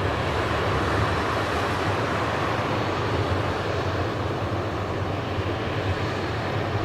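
Jet airliner engines running, a steady rumble with a broad hiss over it that holds even throughout.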